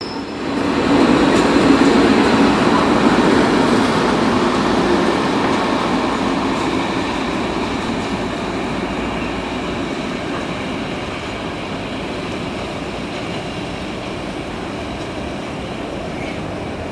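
A loud rushing rumble that swells within the first second and then slowly fades.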